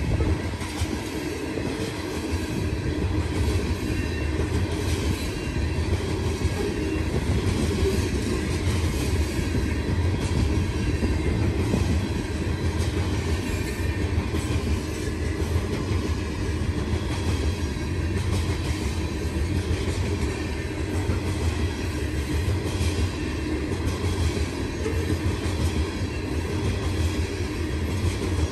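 Freight train of open-top gondola cars rolling past a grade crossing: a steady rumble of steel wheels on the rails with a continuous light clatter.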